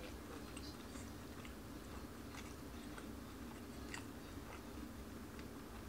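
A person chewing food, faint, with scattered soft mouth clicks.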